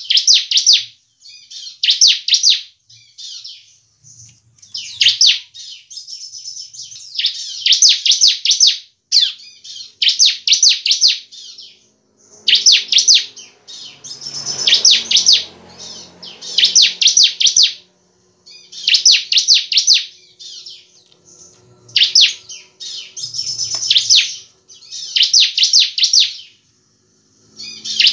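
Bar-winged prinia (ciblek) singing: short bursts of rapid, high repeated notes, each about a second long, coming every two to three seconds. A brief low rustling noise sits under the song about halfway through.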